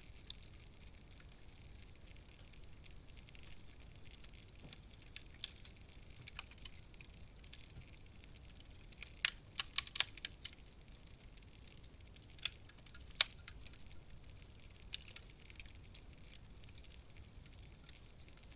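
Wood fire crackling in a fireplace: scattered small pops over a faint steady hiss, with a quick run of loud snaps about halfway through and one more sharp snap a few seconds later.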